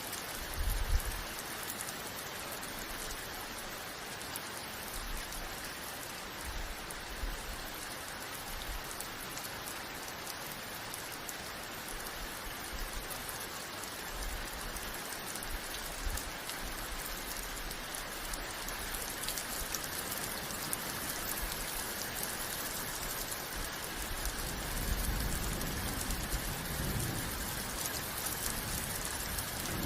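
Rain falling steadily, an even hiss of many drops on a surface. A low rumble swells in the last few seconds.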